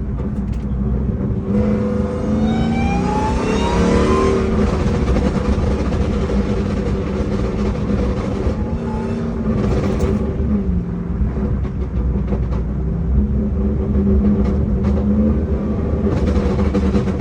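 Ram TRX's supercharged V8 accelerating hard under load, its note climbing steeply over the first few seconds, then running loud and steady at speed, with a brief drop in pitch about ten seconds in.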